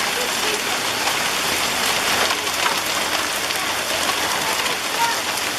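Hail and heavy rain pelting the ground: a steady dense hiss with many small sharp ticks of stones striking.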